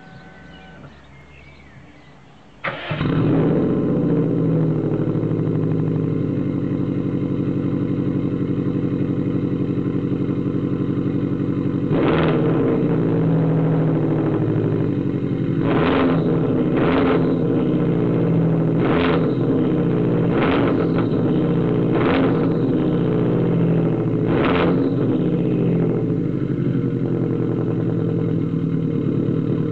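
2002 Subaru Impreza WRX's turbocharged 2.0-litre flat-four starting about three seconds in, then idling loud through a full stainless exhaust with no muffler. It is blipped seven times in short revs in the middle, then settles back to idle.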